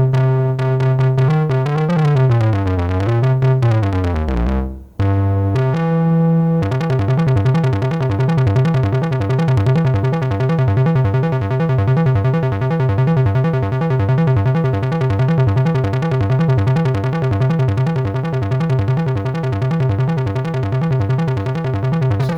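Modular synthesizer voice playing: a held tone that glides down and up in pitch, breaks off briefly, steps through a few notes, then holds one note with a fast, rasping flutter. The flutter comes from an LFO sent through an envelope-gated VCA to modulate the filter, which gives the 'raspberry' sound.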